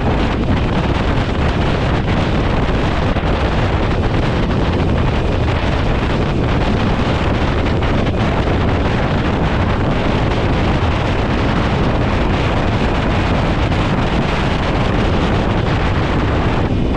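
Wind rushing over the microphone of a motorcycle riding at road speed: a loud, steady noise, heaviest in the low end, that buries any engine sound.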